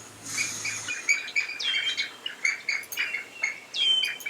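Birds calling: a quick run of short repeated chirps, with two downward-slurred whistles about two seconds apart.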